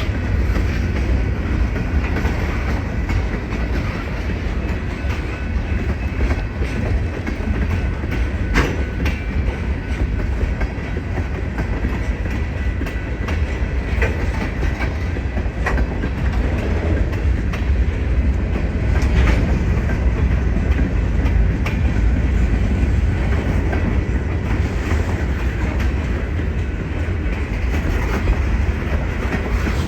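A train's cars rolling past on the rails: a steady heavy rumble with scattered clicks from the wheels over the track.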